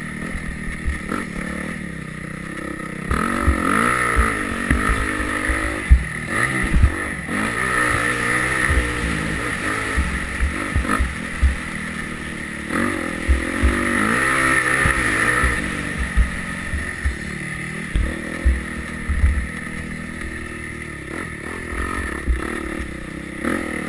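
Yamaha YZ250F four-stroke single-cylinder motocross bike engine revving up and falling back again and again while riding, with frequent short low thumps, the sharpest about six seconds in.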